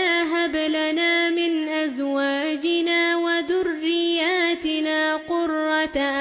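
Quran recitation by a single voice in melodic tajweed style: long held notes with ornamented, wavering turns and only short pauses for breath.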